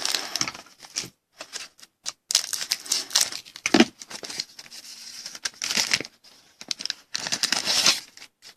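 Plastic card-pack wrapper crinkling and being torn open in several bursts, with one sharp knock a little before the middle.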